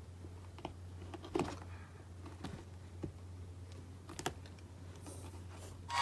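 Faint scattered taps and scratches of a young kitten moving about in a cardboard box, about five light knocks spread unevenly, over a steady low hum.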